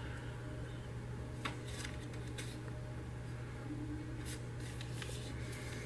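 Sheet of paper being folded and creased by hand: faint rustling with a few soft crackles scattered through, over a steady low hum.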